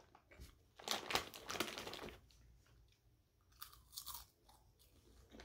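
Someone chewing Oreo cookie popcorn: crisp crunches from about one to two seconds in, then another short spell of crunching around four seconds.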